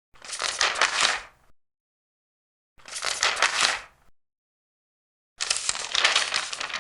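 Large paper pages being turned, three times, each a crisp rustle of about a second, with silence between turns.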